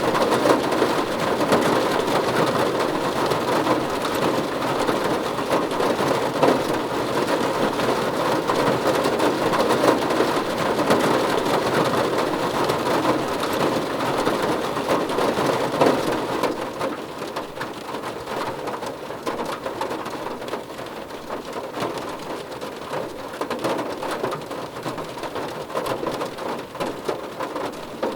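Steady rain drumming on a car roof, a dense patter of countless drops, easing slightly a little past halfway.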